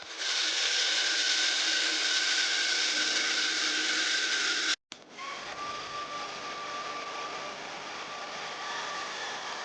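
Steady whirring hiss of a small electric motor with a faint whine. It cuts off abruptly about five seconds in and starts again a moment later, a little quieter and with the whine slightly lower.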